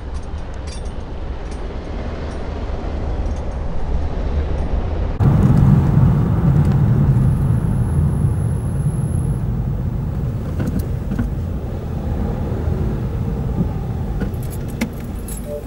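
Road vehicle engine and traffic noise, a steady low rumble that steps up suddenly about five seconds in and then slowly eases off.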